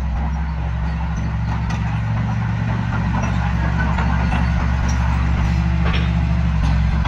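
Heavy diesel engine of an earthmoving machine running steadily.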